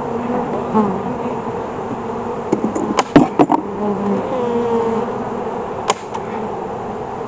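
Honeybees buzzing in a steady, wavering hum around an open hive. A few sharp clicks and knocks come in a cluster about three seconds in and once more near six seconds.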